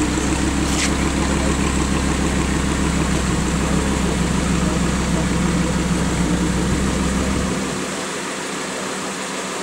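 Lamborghini Huracán LP610-4's V10 engine idling steadily with a low rumble; the deepest part of the rumble drops away near the end.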